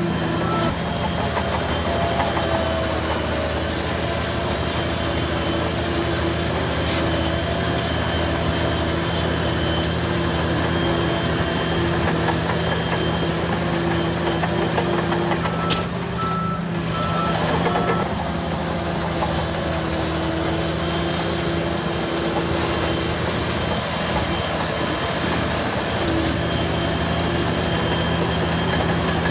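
Bulldozers' diesel engines running steadily under work. A reversing alarm beeps briefly at the start and again as a short run of beeps about halfway through.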